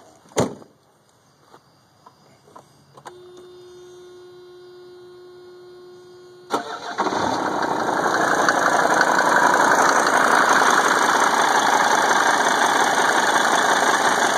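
A sharp knock, then a steady electrical tone for a few seconds, then the Mercedes 300D diesel engine cranks briefly, catches about six and a half seconds in and settles into a steady idle. The idle carries a pinging that the owner finds more than usual; he suspects an exhaust manifold leak.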